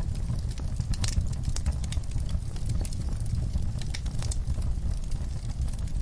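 Wood fire burning in a fireplace: frequent irregular crackles and a few sharper pops over a low steady rumble.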